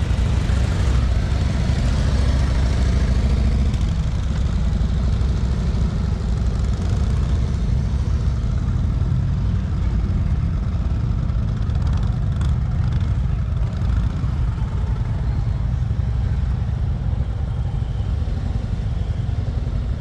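Motorcycle engine running steadily at low speed, a continuous low rumble.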